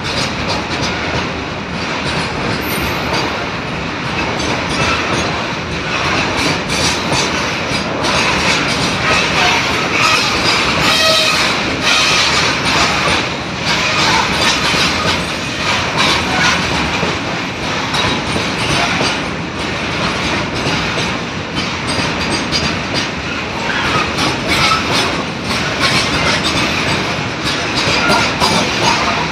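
Oil tank wagons of a freight train rolling past on the rails: a steady, loud rumble of steel wheels with a continuous clatter of knocks as the wheels run over rail joints.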